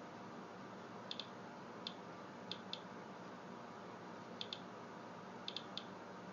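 Rad Alert Inspector Geiger counter clicking at irregular intervals, about ten clicks, some in quick pairs, over a faint steady hiss. Each click is one detected radiation count, taken during a timed count of a rain-soaked paper towel.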